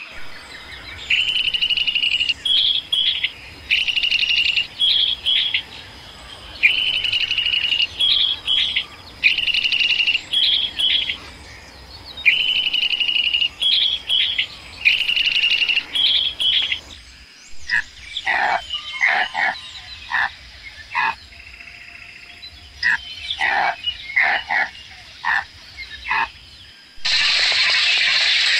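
Bird song: a repeated phrase of a held whistle followed by two or three quick higher notes, about six times, then short scattered chirps from a different bird. Near the end a loud steady noise takes over.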